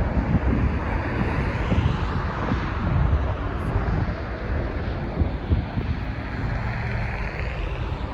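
Twin jet engines of a United Airlines Boeing 767 on takeoff, a steady rumble, with wind gusting on the microphone.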